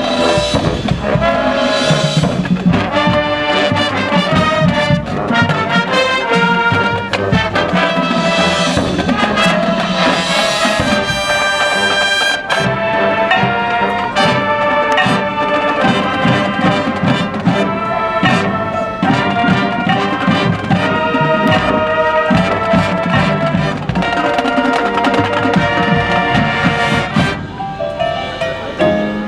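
High school marching band playing loudly, with brass holding sustained chords over drum hits.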